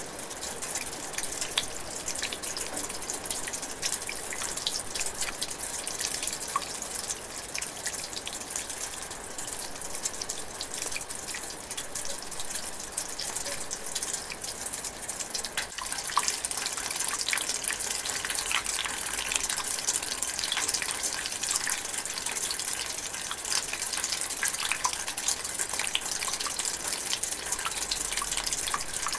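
Light drizzling rain: a steady hiss with many separate drops ticking through it, growing a little heavier about halfway through.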